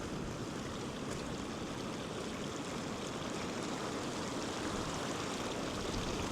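River water rushing steadily over a low-water road crossing, an even running-water noise.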